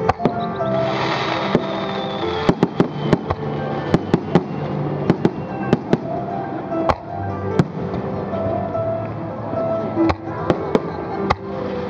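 Aerial fireworks bursting in a quick run of sharp bangs and crackles, with music playing throughout.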